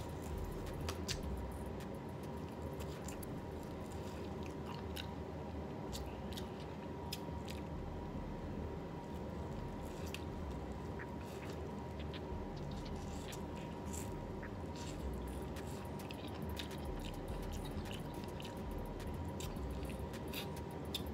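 Close-miked chewing and biting of sauced chicken wings: wet mouth clicks and smacks scattered irregularly throughout, over a faint steady hum.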